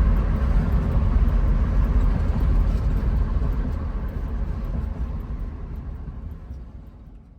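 1966 Ford Mustang's engine running with a steady low exhaust rumble, fading away over the last couple of seconds.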